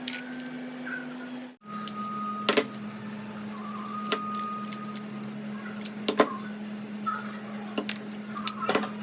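Small metal parts of a Honda CG125 carburettor clicking and clinking as it is taken apart by hand, a handful of sharp knocks spread irregularly over a steady low hum.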